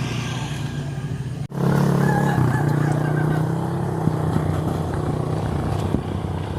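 Motorcycle engine running steadily. It cuts off abruptly about a second and a half in and comes back louder straight after.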